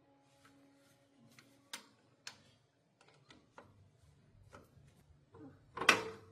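Scattered sharp clicks and knocks from hand work on metal parts: two clear clicks about two seconds in, then one much louder knock near the end.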